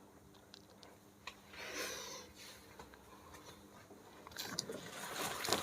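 Faint handling sounds of Samyang seasoning sauce being squeezed from its sachet onto the noodles: a few small clicks, a short rustling swish about two seconds in, and more rustling and scraping near the end.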